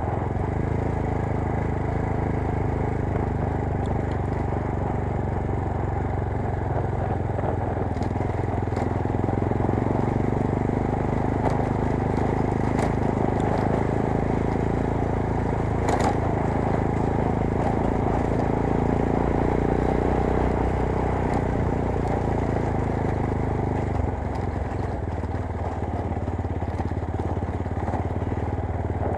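GX-R 250S motorcycle engine running steadily under way, under a heavy rush of wind noise on the microphone; the engine note changes and eases about five seconds before the end.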